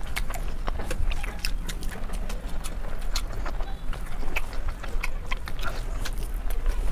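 Close-miked eating sounds: chewing and lip smacking, a dense irregular run of wet clicks and smacks, several a second.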